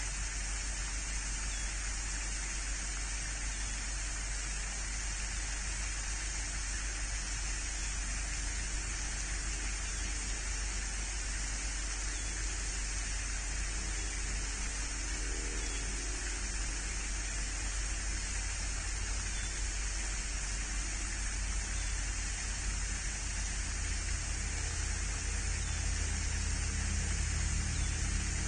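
Steady hiss-like background noise with a low hum underneath, getting slightly louder near the end.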